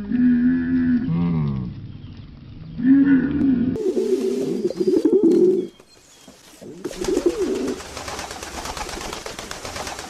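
A dromedary camel gives two low, drawn-out calls, the first falling in pitch at its end. From about four seconds in, a mourning dove coos softly several times.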